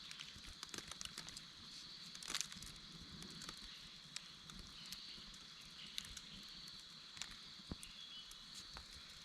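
Forest ambience: a steady high-pitched insect drone, with scattered crackles and snaps of leaves and twigs underfoot. The loudest snap comes about two and a half seconds in.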